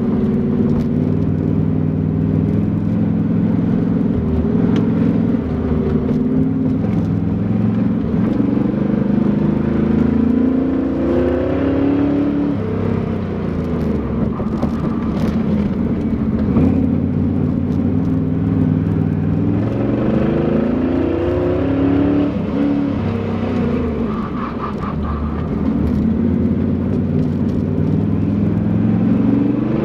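Heavily modified 1962 Chevy Nova's engine, heard from inside the car, pulling hard through a lap. Its pitch climbs under acceleration and falls away several times as it lifts for corners, and the engine runs loud throughout.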